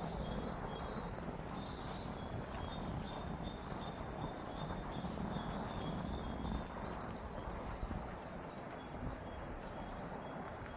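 Small birds chirping in short, repeated notes, with a few quick higher calls about seven seconds in, over a steady low outdoor background noise.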